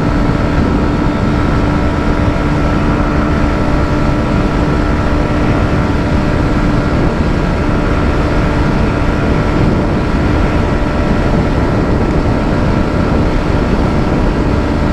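Hero Xtreme 125R's single-cylinder engine running flat out in top gear at about 118 km/h, a steady unchanging note with heavy wind rush over the microphone.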